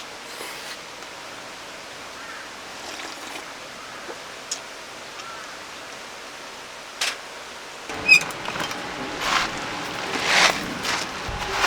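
A valley stream running with a steady rush of water. From about eight seconds in, several sharp clicks and knocks sound over it.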